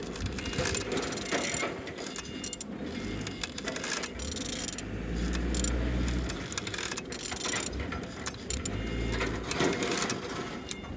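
Renault K9K 1.5 dCi diesel engine being turned over by hand with a ratchet wrench: irregular ratchet clicks and mechanical knocks over a low hum.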